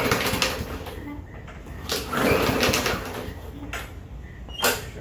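Two pulls on a Bolens push mower's recoil starter cord, each a short whirring rasp, about two seconds apart, with no engine catching; a sharp knock near the end.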